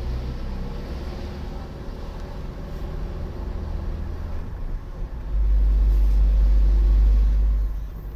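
A car driving on a road, a steady low rumble of engine and road noise. About five seconds in, the low rumble swells louder for a couple of seconds, then drops back.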